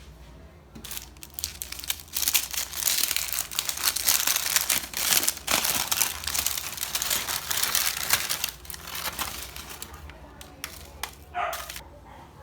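Crinkling and rustling of a handled wrapper or bag, dense and loud through the middle and thinning out near the end.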